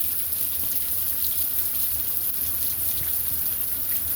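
Heavy rain falling steadily, with faint scattered drip ticks through it.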